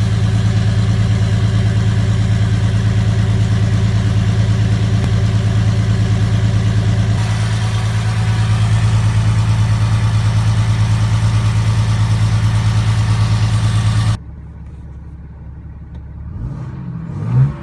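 6.7 Cummins inline-six turbodiesel idling through a 4-inch exhaust with the DPF and DOC deleted: a loud, steady, evenly pulsing note. About fourteen seconds in it cuts to a much quieter recording of the exhaust with all cats deleted, with a brief rev near the end.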